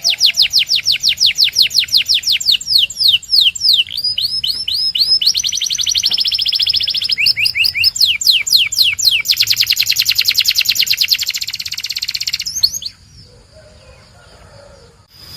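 Domestic canary singing: fast trills of rapidly repeated, downward-sweeping notes that switch to a new kind of note every second or two. The song breaks off suddenly about 13 seconds in, leaving a quieter stretch near the end.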